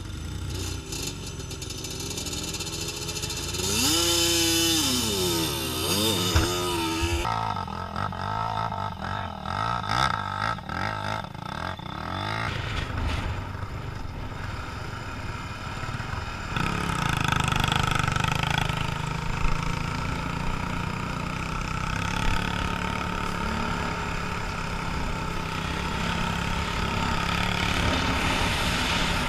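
Motorcycle engines running and revving, the engine pitch sweeping sharply up and down for a few seconds early on, then settling into a steadier drone from about halfway through.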